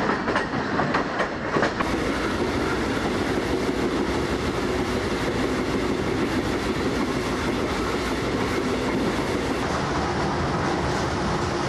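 Passenger train running along the track: sharp wheel clicks over rail joints for the first couple of seconds, then, heard from inside the carriage, a steady rumble and rattle.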